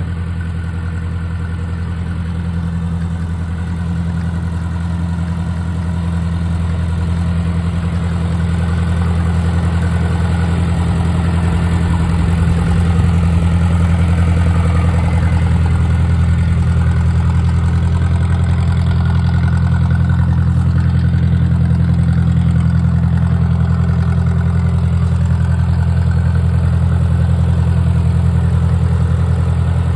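1953 Ford Jubilee tractor's four-cylinder gasoline engine running steadily at a low, even speed, growing a little louder over the first dozen seconds.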